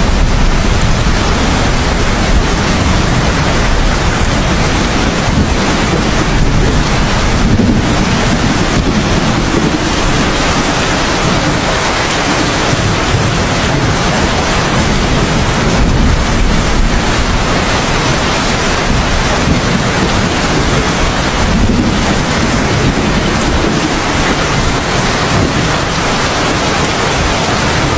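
Heavy, steady rain with a deep rolling rumble of thunder underneath.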